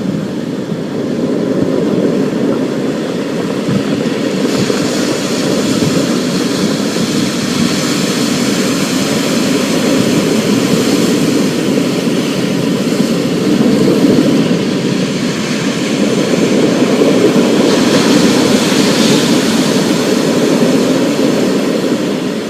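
Storm ambience: steady heavy rain with a continuous low rumble underneath and a hiss above, swelling slightly now and then.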